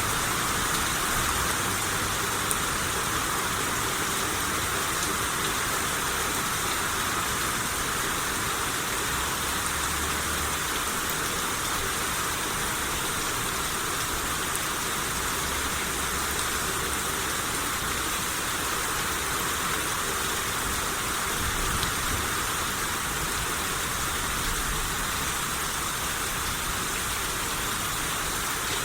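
Steady rain shower falling, an even hiss of rain on surfaces that holds constant throughout, with a few faint low rumbles now and then.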